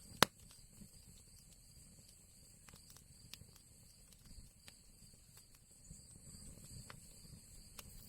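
Wood fire crackling in an old chimney fireplace: one sharp loud pop just after the start, then scattered fainter snaps over a low rumble of the burning fire.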